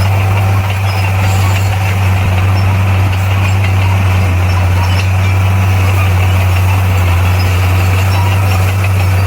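Bulldozer's diesel engine running at a steady speed: a loud, low drone that holds one pitch throughout.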